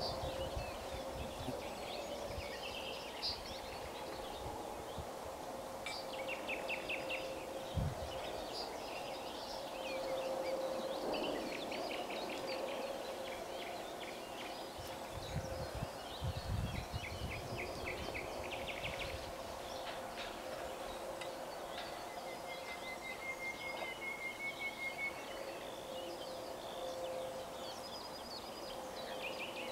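Small birds chirping and trilling on and off over a steady outdoor background with a faint constant hum.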